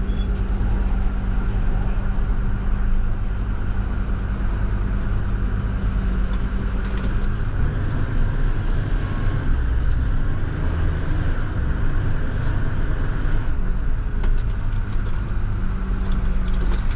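International TerraStar dump truck's diesel engine running as the truck is driven a short way and parked, heard from the cab. A steady low hum under the engine stops about seven seconds in.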